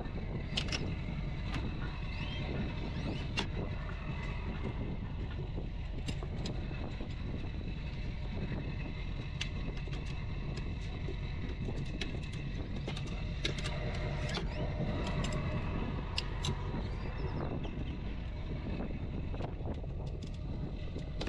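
Tractor engine running steadily, with scattered light clicks and knocks over it.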